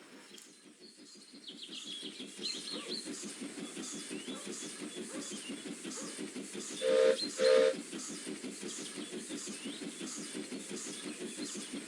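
Steam locomotive chuffing at a fast, even beat, with two short whistle blasts about seven seconds in. Birds chirp faintly a couple of seconds in.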